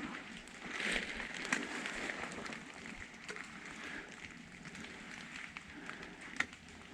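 Footsteps crunching and rustling through leaf litter while walking in woods, with scattered snaps and crackles of twigs; louder for the first couple of seconds, then softer.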